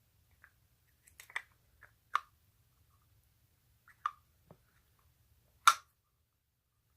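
Scattered light clicks and taps of hands handling small hard objects, about eight in all, the loudest about two-thirds of the way through.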